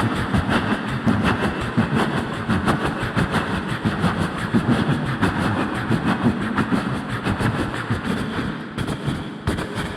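Vocal mimicry of a moving steam train, amplified through a sound system: a fast, steady rhythm of chugging and wheel clatter on the rails, easing a little near the end.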